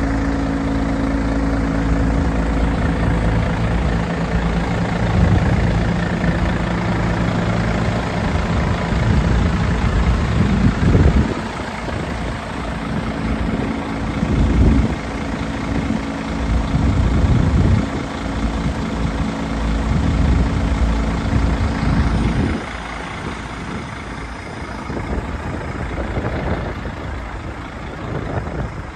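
Diesel engine of a refrigerated truck idling steadily, with a few louder swells. About 22 seconds in the steady engine note stops, leaving a quieter, uneven rumble.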